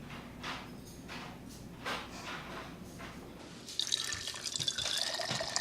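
Water starts running from a kitchen tap about two-thirds of the way in, a steady splashing hiss, after a few faint soft knocks.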